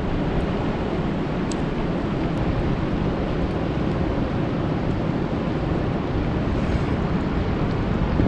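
Steady rain falling on a lake, a dense, even rush of noise with a deep low end.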